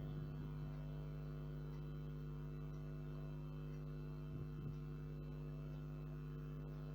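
Steady, low electrical hum with a stack of overtones, like mains hum picked up by the recording, with a couple of faint soft sounds about four and a half seconds in.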